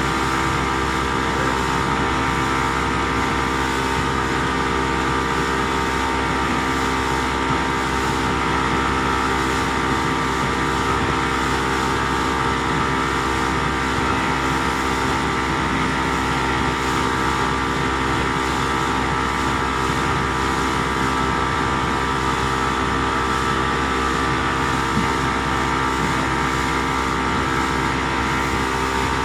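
Boat engine running steadily at one constant speed: a continuous drone with several steady tones over a wash of noise.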